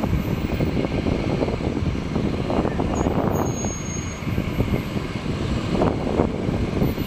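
Low, steady rumble of the Boeing 747 Shuttle Carrier Aircraft's jet engines after its low flyby.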